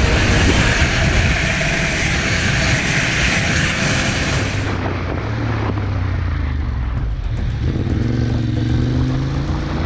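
Motorcycle engine running at speed with heavy wind rush. About halfway through the sound changes abruptly to a steadier engine note, which rises in pitch near the end as the engine accelerates.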